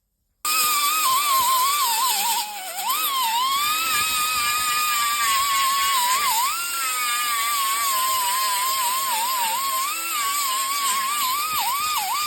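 Power grinder whining as it works on a car's sheet-metal quarter panel, its pitch wavering and dipping sharply several times as the wheel bites under load. It starts abruptly after a brief silent cut.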